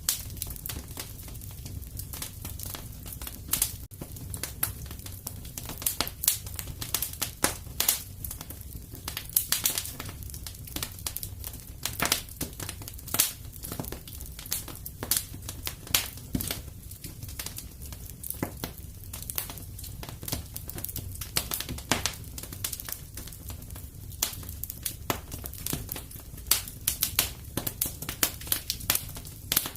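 Fire burning in a fireplace, crackling and popping irregularly over a low steady rumble.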